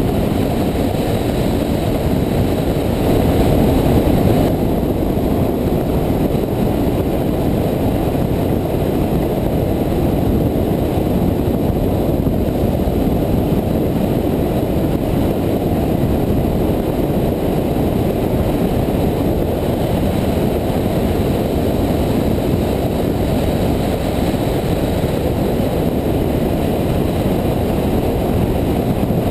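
Motorcycle riding at speed: a steady rush of wind over the microphone with the engine running underneath.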